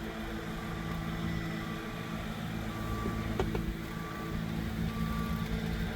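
A vehicle's engine running steadily, with a reversing beeper sounding about once a second.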